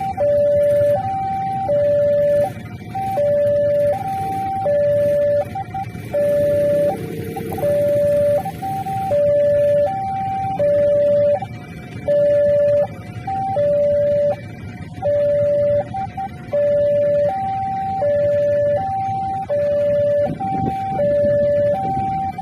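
Railway level-crossing warning alarm sounding a steady loop of alternating high and low electronic notes as the crossing gate closes for a train, over the rumble of road traffic.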